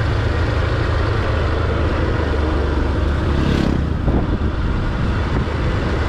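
Motorcycle running on the move: a steady low engine rumble mixed with rushing wind, with a short louder swell about three and a half seconds in.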